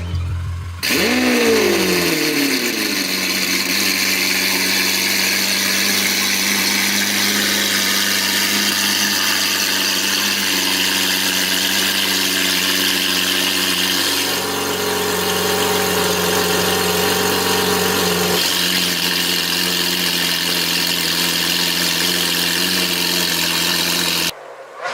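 Lamborghini Aventador SV's V12 engine through an Fi aftermarket exhaust: a sharp rev flare about a second in that falls quickly back to a steady idle, which holds until the sound cuts off near the end.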